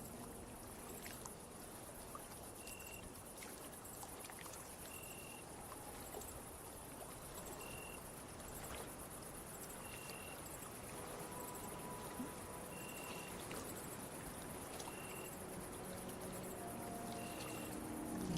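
Crickets chirring in a steady, high, pulsing trill, with a short chirp about every two and a half seconds, over a soft wash of gently moving water.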